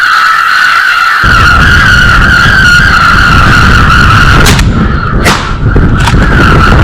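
Heavy wind buffeting the microphone, a loud low rumble that cuts in about a second in, over a steady high-pitched whistling tone; a few sharp clicks near the end.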